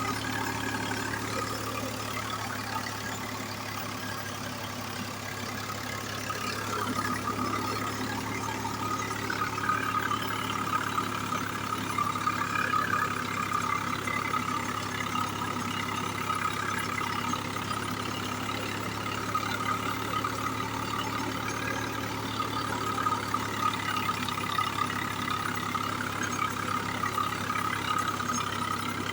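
Swaraj 744 XT tractor's three-cylinder diesel engine running steadily.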